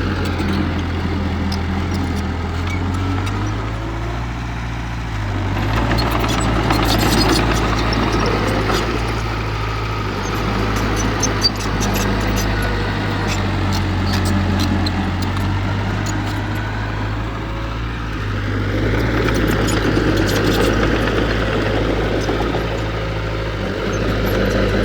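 Heavy earthmoving machine's diesel engine running steadily, growing louder twice as it works under load, with scattered clicks and clanks.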